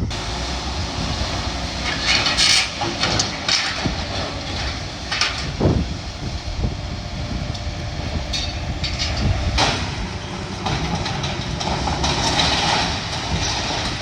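Heavy demolition machinery working on a building: a steady engine rumble with irregular crashes and clanks of debris being brought down, loudest about 2.5, 3.5, 5 and 9.5 seconds in.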